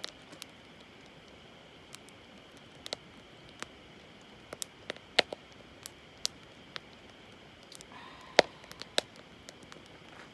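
Wood campfire crackling: sharp, irregular pops and snaps over a low steady hiss, with one louder pop near the end.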